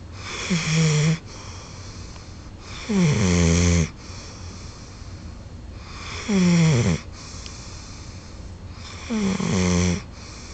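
Golden retriever snoring in deep sleep: four loud snores about three seconds apart, each falling in pitch, with quieter breathing between them.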